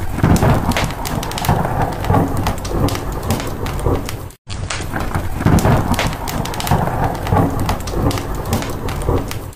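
Rain and a low rumble of thunder mixed with the sharp crackling of a wood fire in a fireplace. The sound cuts out for an instant about four and a half seconds in, where the short recording loops.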